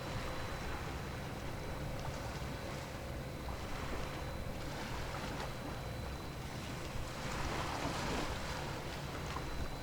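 Seaside ambience: wind on the microphone and waves washing, over a steady low rumble and a faint steady hum, with a louder wash about seven seconds in.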